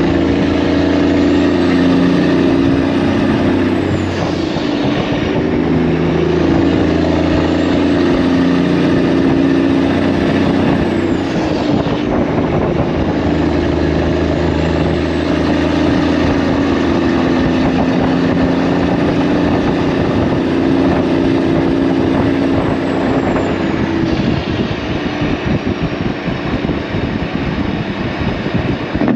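Semi-truck diesel engine running while driving, heard from inside the cab, its note shifting a few times.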